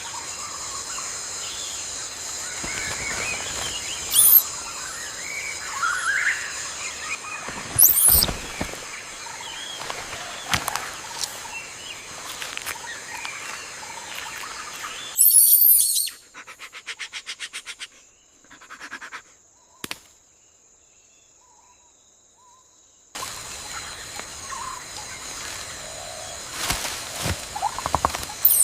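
Tropical forest ambience: a steady high insect buzz with scattered bird calls and a few sudden louder sounds. About halfway through, after a quick run of regular pulses, it drops away to near silence for several seconds, then returns.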